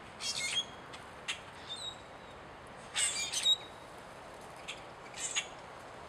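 Wild birds calling with short, high chirps, about six separate calls or call clusters, the loudest about three seconds in, over a faint steady hiss.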